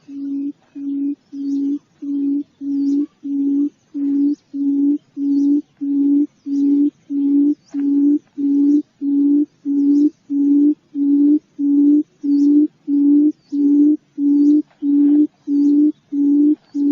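Quail lure call: one low, hooting note repeated evenly about twice a second, with faint high chirps of small birds above it.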